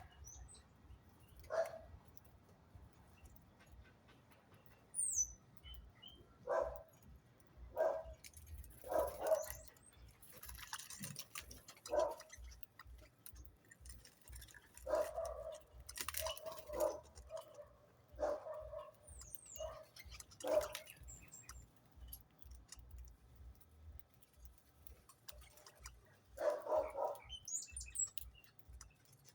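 Short animal calls at irregular intervals, with a few thin, high bird chirps now and then.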